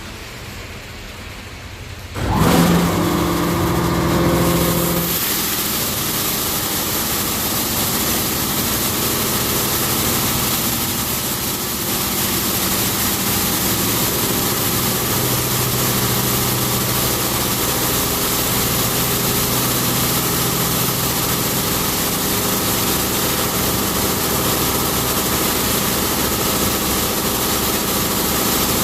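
Touch-free automatic car wash starting up about two seconds in: machinery hum comes on, then high-pressure water jets spray the car with a steady loud hiss over the running pump.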